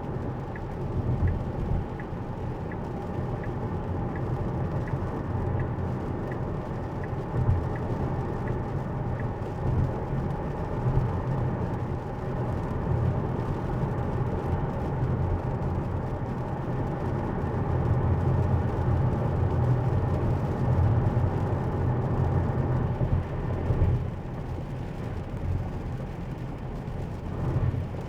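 Steady low road and tyre rumble with a light hiss, heard inside the cabin of a Tesla driving on a wet road. A faint, quick, regular ticking, about two ticks a second, runs under it and stops about nine seconds in.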